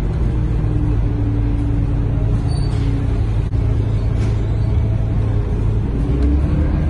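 Scania K230UB bus heard from inside the cabin, its engine and drivetrain running steadily with a low rumble and a steady whine that starts to climb in pitch near the end as the bus picks up speed. A short high beep sounds about two and a half seconds in.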